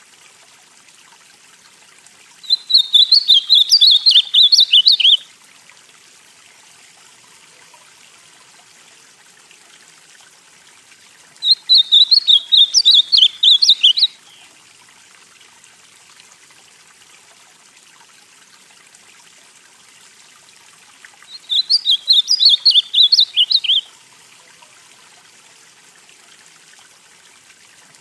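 Ultramarine grosbeak (azulão) singing: three short warbled song phrases of about two and a half seconds each, spaced about ten seconds apart, over a faint steady hiss.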